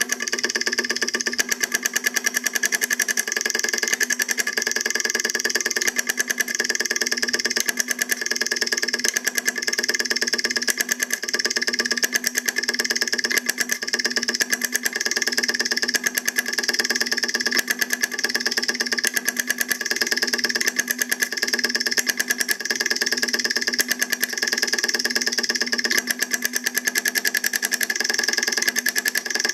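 Homemade solenoid motor built from hard disk drive parts running steadily: a fast, even clatter of rapid clicks over a constant hum.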